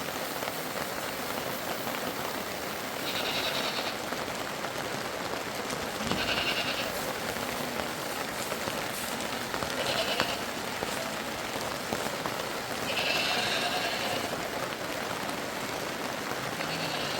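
Sheep bleating about five times, every three to four seconds, over a steady rain-like hiss of water.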